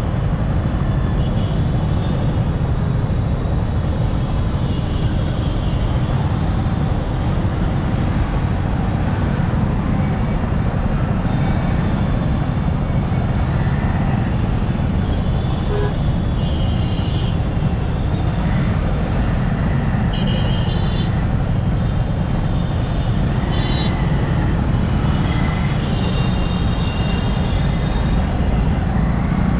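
Steady wind and road rush from riding a motorcycle through traffic, with other vehicles' horns honking briefly several times in the second half.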